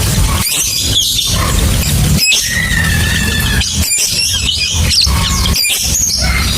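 Lovebird calling in a run of shrill, high chirps and squeaks, with one held whistling note in the middle, over a steady low hum.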